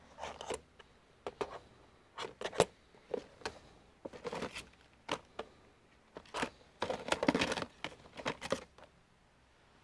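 Irregular handling sounds: short clicks, taps and rustling of plastic packaging, with a busier stretch of rustling about seven seconds in.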